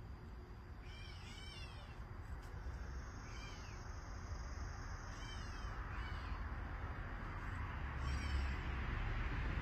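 A bird calling with short, arched, mew-like notes, several times at uneven intervals, over a steady rushing background that grows louder toward the end.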